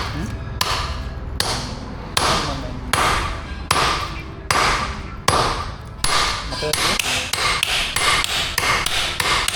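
Blacksmith's hammer striking steel on an anvil in steady forging blows, each with a short metallic ring. The blows come about once every second at first, then speed up to about three a second some six seconds in.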